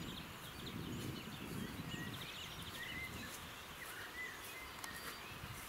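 Rural outdoor ambience: birds calling with short chirps and fast trills, over a faint low rumble.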